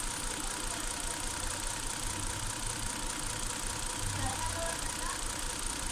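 Engine idling steadily, a continuous low running hum.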